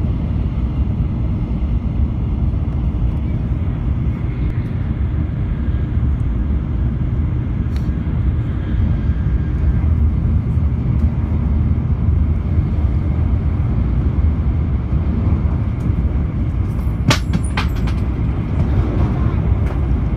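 Steady low rumble of a Shinkansen bullet train running at speed, heard from inside the passenger cabin. A few sharp clicks come close together about three-quarters of the way through.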